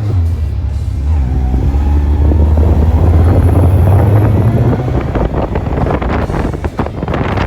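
Motorcycle engine running while riding, rising in pitch as it accelerates about a second in, with a strong low rumble. Wind buffets the microphone toward the end.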